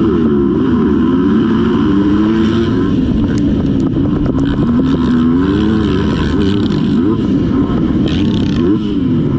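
Motocross dirt bike engine revving up and down as the throttle is opened and closed, the pitch rising and falling every second or two.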